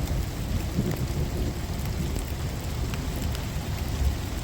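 Heavy rain pouring down, with a low rumble of thunder that slowly fades, and raindrops ticking sharply on the phone.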